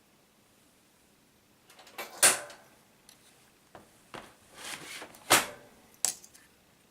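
Laptop parts being handled during disassembly: a string of short clicks and clatters of small hard plastic and metal pieces. The loudest knocks come about two seconds in and again about five seconds in.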